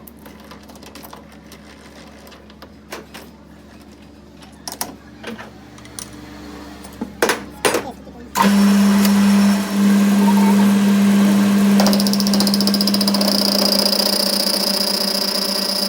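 Scattered clicks and knocks of tools and metal being handled. About eight seconds in, a workshop machine starts suddenly and runs with a loud steady hum and hiss. About four seconds later a higher hissing edge joins it.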